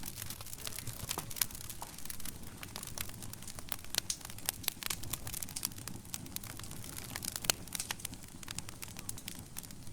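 Wood fire burning in a fireplace, crackling with frequent irregular sharp pops over a low steady rumble of flames.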